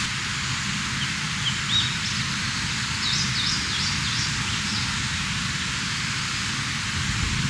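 Steady rushing of a mountain stream, with a small bird calling in a few quick chirps about a second and a half in and again a few seconds later.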